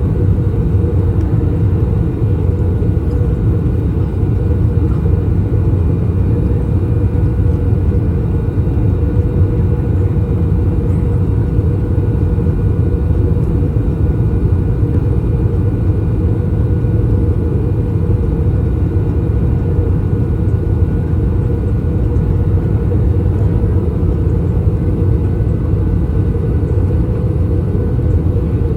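Cabin noise inside an Airbus A321 during its descent: a steady low rumble of airflow and the IAE V2533-A5 turbofans, heard from a seat behind the wing, with a faint steady whine above it.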